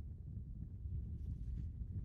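Low steady rumble of wind on the microphone, with a faint short hiss about halfway through.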